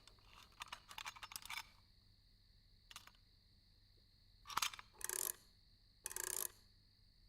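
Small metallic clicks and clinks from a clockwork mechanism being worked on, a quick run of them in the first two seconds and another near three seconds, then a few short rasping bursts about half a second long.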